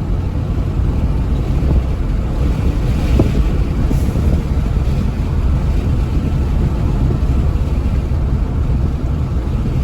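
Steady low rumble of road, tyre and engine noise inside the cabin of a 2014 Hyundai Veloster Turbo being driven.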